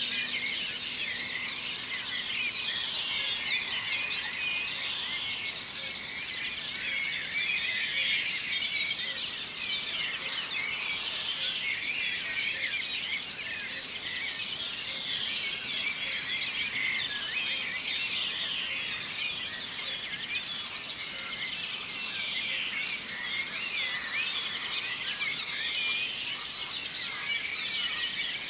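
Morning bird chorus: many birds singing at once, a dense overlapping mass of high chirps and trills with no pause.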